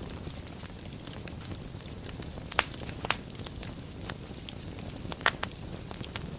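Wood fire burning in a fireplace: a steady low hiss with scattered crackles and sharp pops, the two loudest about two and a half seconds and five seconds in.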